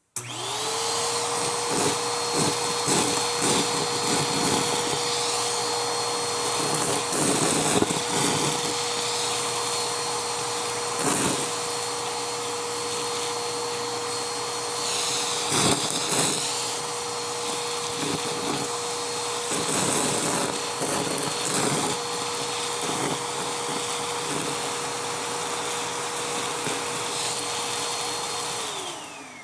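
Vacuum cleaner switched on, running with a steady whine while it sucks up Styrofoam pieces, which click and rattle at irregular moments. It is switched off near the end, and the motor winds down.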